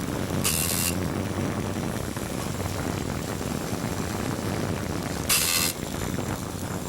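Small racing-drone motors running steadily, with two short bursts of hiss about half a second in and about five seconds in.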